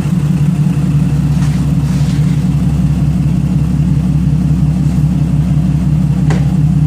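Turbocharged FG Falcon inline-six engine in a BF Falcon wagon idling steadily on its first startup, with an even, regular pulse to its note.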